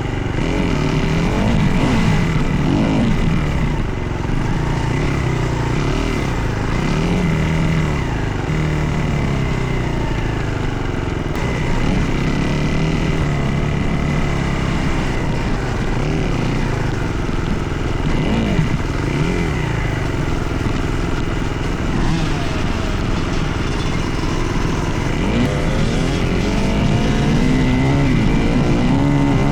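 Dirt bike engine running under load as it is ridden, its pitch rising and falling over and over as the throttle is opened and closed.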